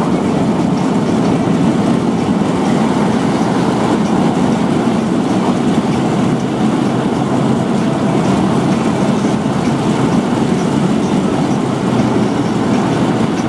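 Steady road noise inside a moving car's cabin: tyre rumble and engine hum at speed.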